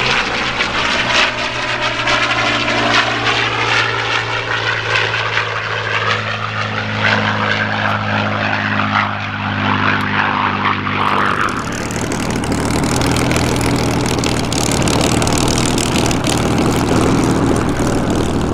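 Formation of Supermarine Spitfires and Hawker Hurricanes flying past, their V12 piston engines giving a steady propeller drone whose tone sweeps as the aircraft pass. About eleven seconds in, the sound changes abruptly to a rougher, noisier aircraft rumble.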